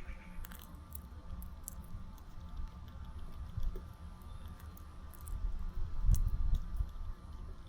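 Low wind rumble on the microphone, loudest about six seconds in, with scattered small clicks and taps.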